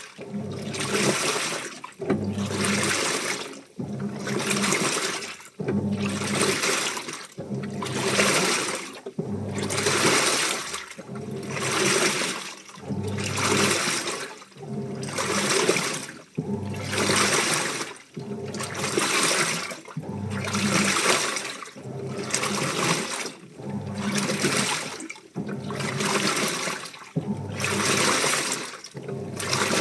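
Washing machine in its wash cycle: water sloshing in regular swishes, about one every second and a bit, as the load is churned back and forth, with a low motor hum under each stroke.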